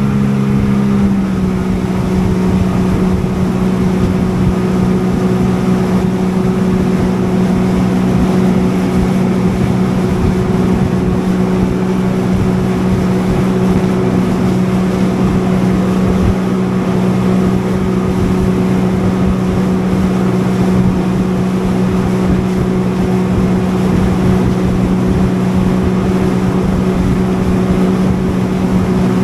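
Jet ski engine running at a steady cruising speed: a constant, even drone over the rush of wind and water.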